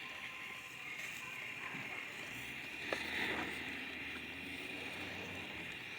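Campfire with sparklers and morning glory fireworks in it, hissing steadily, with one sharp pop about three seconds in.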